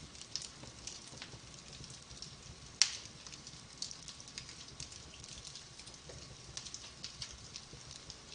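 Wood fire in a fireplace crackling: a steady run of small snaps, with one sharp pop about three seconds in.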